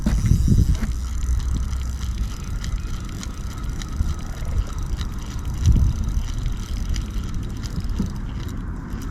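Fishing reel being wound in, with fine ticking from the reel, and wind rumbling heavily on the microphone.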